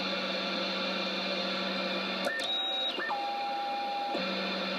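Radio receiving band noise: a steady hiss with a low hum, cut about halfway through by a couple of seconds of electronic tones stepping in pitch, after which the hiss and hum return.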